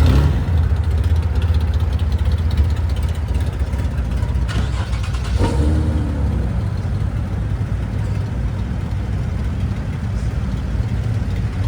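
A Nissan Z sports car's engine running with a steady, loud low rumble.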